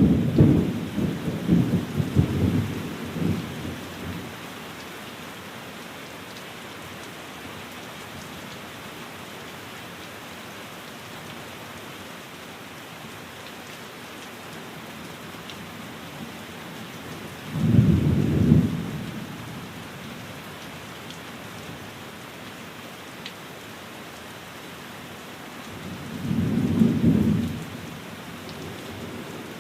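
Steady rain with three rolls of thunder. The first is a long rumbling roll in the opening few seconds, the second comes about 18 s in and the third about 27 s in.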